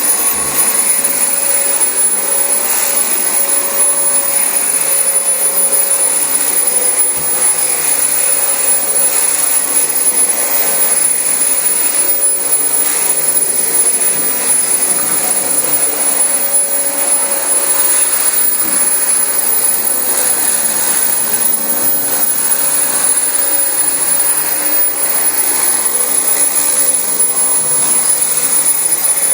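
Dyson DC25 bagless upright vacuum cleaner running steadily over carpet: a constant rush of air with a steady high whine from the motor.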